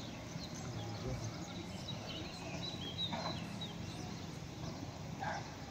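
Small birds chirping in short, high calls, busiest in the middle, over a low steady rumble of outdoor background noise.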